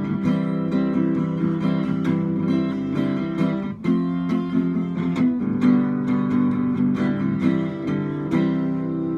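Acoustic guitar strumming chords, the instrumental outro of a song.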